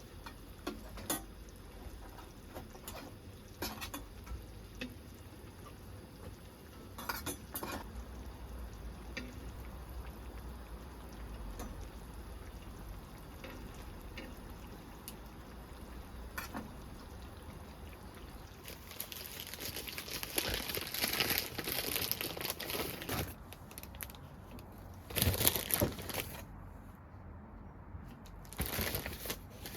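Camp cooking handling: scattered clinks and knocks of pots, dishes and utensils, then liquid poured for a few seconds past the middle, with two short louder bursts near the end.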